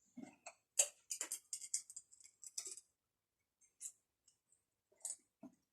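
A Pringles crisp being bitten and chewed: a quick run of crisp crunches about a second in, then a few faint single clicks.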